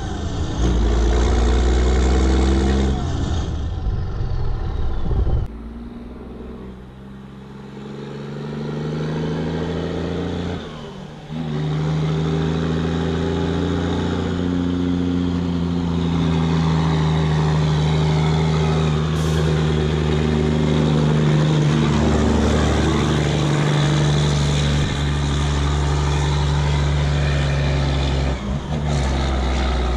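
Sisu M-162 truck's straight-piped Rolls-Royce engine working under a heavy sand load. Its note drops away for several seconds about five seconds in, then comes back under power and runs steadily, with a short dip near the end.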